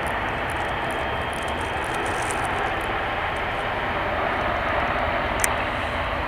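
Airliner jet engines running, a steady broad rush that swells slightly about four to five seconds in, with one sharp click near the end.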